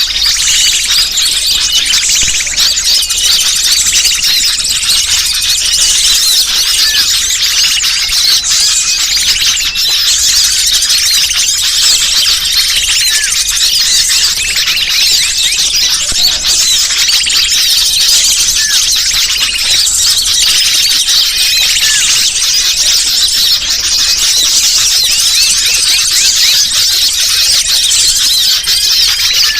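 Bird-luring (pikat) recording: a dense, unbroken chatter of many small birds' high, rapid chirps and squeaks.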